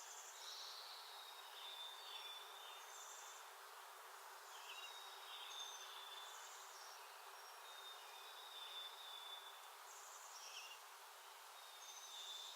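Faint backyard songbirds calling: repeated thin, high whistled notes about every second or two, mixed with short chips, over a steady outdoor hiss.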